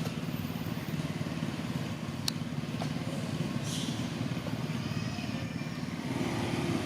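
Steady low engine rumble, with a single sharp click a little over two seconds in and a brief hiss a second or so later.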